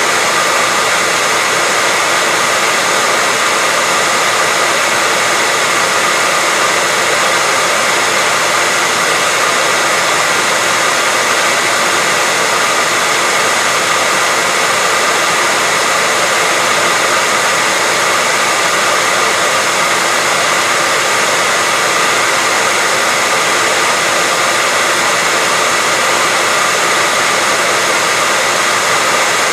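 Hair dryer running steadily on one setting: a loud, even rush of air with a steady high whine mixed in, unchanging throughout.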